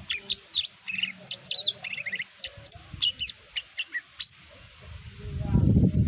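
Cucak ijo mini (green leafbird) singing a fast, varied run of short sharp chirps and whistled notes, about four seconds long. Near the end a loud low rustling noise comes in.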